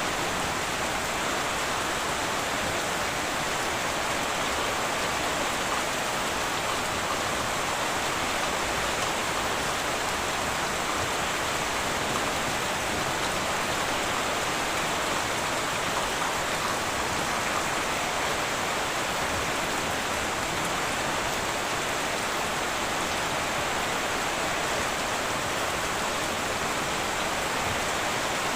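Heavy rain falling steadily on a tin roof, an even, unbroken patter with no thunder.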